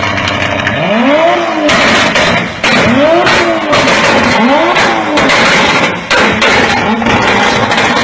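Car engine revved in three quick blips, its pitch rising and falling each time, over a loud rushing noise.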